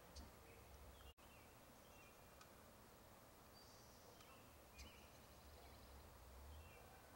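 Near silence, with a few faint, short, high bird chirps scattered through it.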